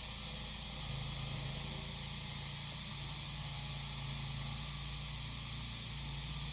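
Small engine of a grass mower running steadily, its pitch shifting slightly a couple of times, under a steady chorus of cicadas.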